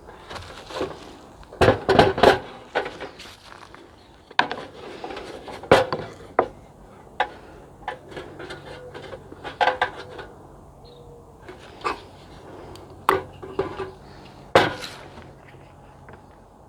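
Camp dishes and utensils being handled: irregular knocks and clinks, a few sharper clatters among them.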